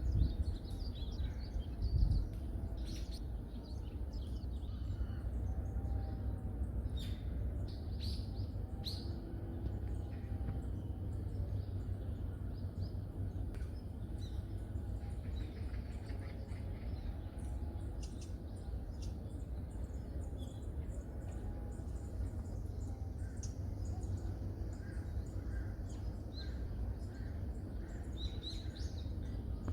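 Wild birds chirping in a forest, with many short, high calls scattered throughout, over a steady low rumble and a low thump about two seconds in.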